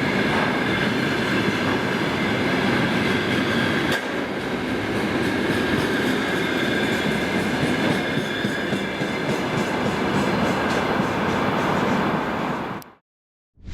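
Container freight train rolling past at close range: a steady rumble of wheels on rail with a thin high ringing tone over it, and a single sharp knock about four seconds in. The sound cuts off abruptly near the end.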